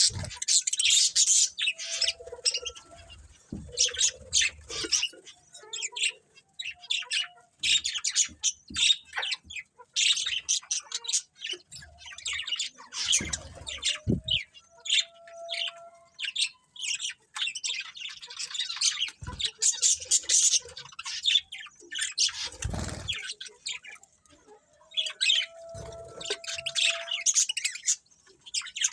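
Budgerigars chirping and chattering in quick, high, rapid calls, with brief pauses.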